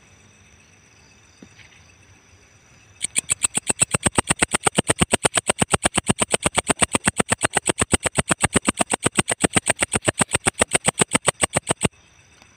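Walang ecek insect singing: a rapid, even run of dry pulses, about seven a second, starting about three seconds in and stopping shortly before the end.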